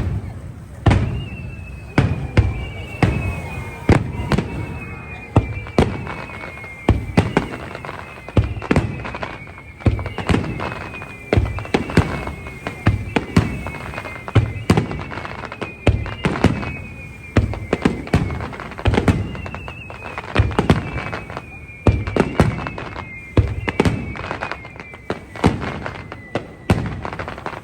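Aerial fireworks barrage: shell bursts booming about one to two times a second, each followed by a low rumble. Between them come repeated high whistles that fall in pitch.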